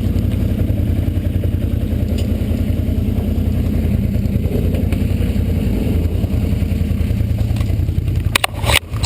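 Off-road 4x4's engine running steadily in four-wheel drive as it crawls up a rough trail obstacle, an even fast throb. Near the end come a few sharp knocks.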